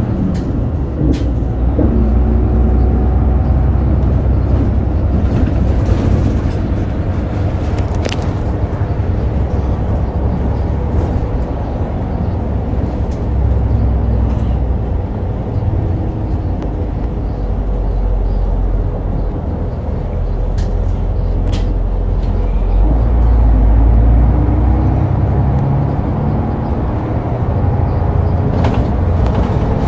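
Route bus's diesel engine and road noise heard from inside the cabin while driving, the engine note rising and falling with acceleration and swelling loudest a little past two-thirds of the way through. A few sharp clicks or rattles sound along the way.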